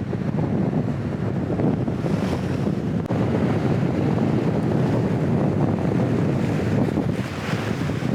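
Strong wind buffeting the microphone in a continuous rumble, over waves washing at the shore, with a hissing surge about two seconds in and another near the end.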